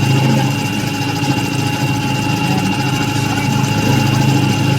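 Machine-shop machinery running steadily: a constant motor hum with a steady high whine.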